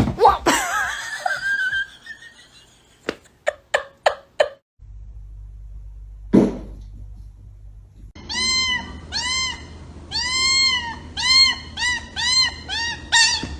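A cat meowing over and over: about a dozen short, high meows in quick succession through the second half, after a few sharp clicks earlier on.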